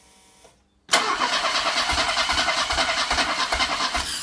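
Mercedes-Benz 230 CE's M102 four-cylinder petrol engine cranked by the starter motor for about three seconds, starting about a second in, with low beats about four a second. The engine does not catch, and the cranking stops.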